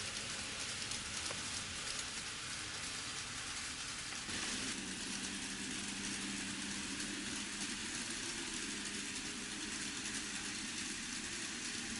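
N scale model trains running on a layout: a steady rushing of small wheels on the rails. About four seconds in, a low steady hum comes in and holds.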